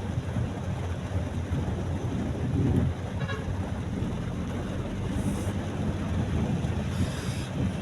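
Steady road and engine rumble heard from inside a moving car, with two brief hisses about five and seven seconds in.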